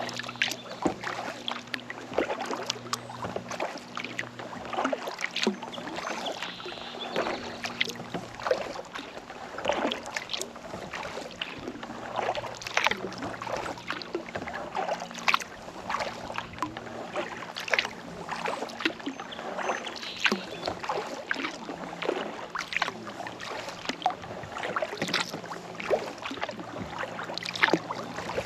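Kayak paddling: the paddle blades dipping and pulling through lake water, with a continual irregular run of small splashes and drips. A faint steady low hum sits underneath, a little stronger in the first few seconds.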